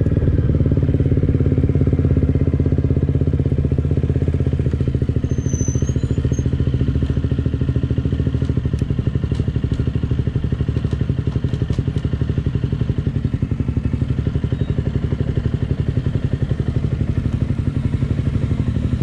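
KTM Duke 125's single-cylinder four-stroke engine running at low revs with a steady, fast, even pulse. A few light clicks come through in the middle.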